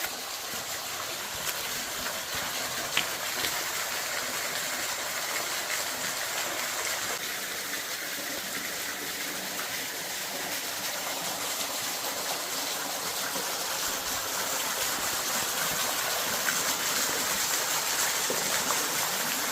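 Small waterfall in a creek ravine: a steady rush of falling water that grows a little louder toward the end, with a few faint clicks near the start.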